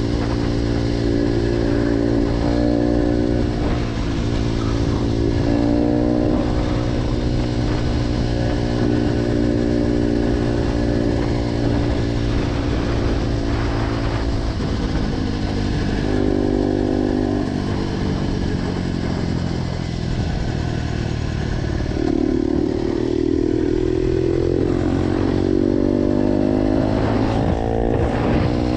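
Motorcycle engine breathing through an aftermarket G.P.R exhaust, running under way, its pitch holding and then shifting several times and climbing steadily over the last several seconds.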